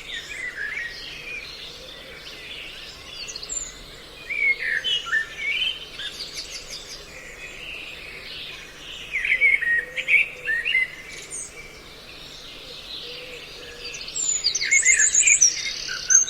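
A mixed recording of several songbirds calling, made as a bird-trapping lure: many short chirps and whistled notes, with quick high trills about six seconds in and again near the end, over a faint steady hum.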